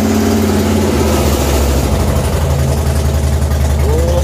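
A 2014 Harley-Davidson Fat Boy's air-cooled V-twin idling steadily, just after being started.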